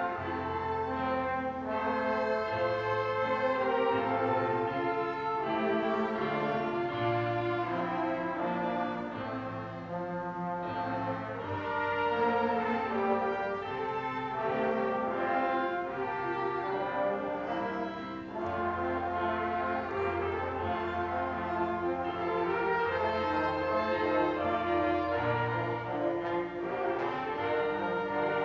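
Church Sunday School orchestra of brass and strings playing an instrumental piece, with a moving bass line under held chords.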